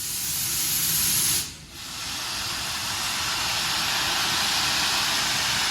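Preserved steam locomotive releasing steam: a loud, steady hiss that breaks off briefly about one and a half seconds in, then carries on evenly.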